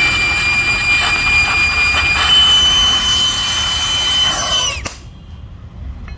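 Power tool motor running at full speed with a steady high whine, then winding down with falling pitch and stopping near the end, followed by a click.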